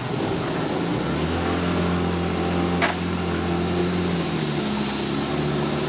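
Boat engine running steadily after starting, with a sharp click about three seconds in.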